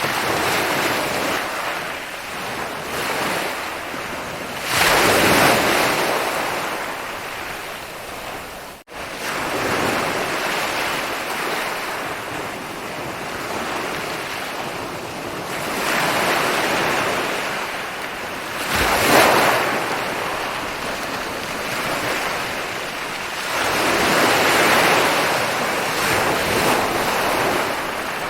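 Ocean waves breaking and washing up a shore, a steady rush of surf that swells into a louder crash every several seconds. There is a momentary break in the sound about nine seconds in.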